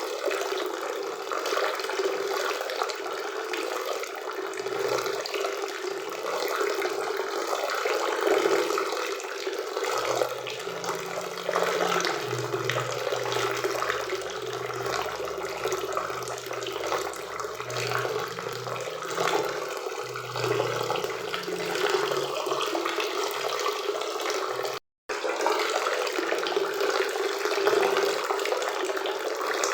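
Waterfall and river water rushing in a steady, unbroken wash. The sound cuts out completely for a split second about five seconds before the end.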